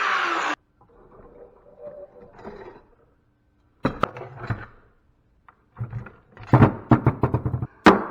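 Music cuts off abruptly just after the start. Then come scattered knocks and clatters of metal scrap parts being handled during dismantling, with a quick run of them near the end.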